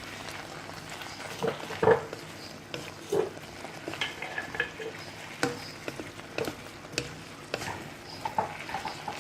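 Chicken strips, sweet peppers and onion frying in olive oil in a pot with a steady sizzle, being stirred with the spices just added; the utensil knocks against the pot at irregular moments.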